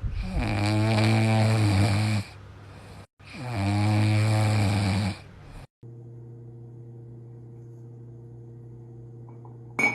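A pet snoring loudly: two long snores a little over a second apart. Then a steady low hum begins about six seconds in.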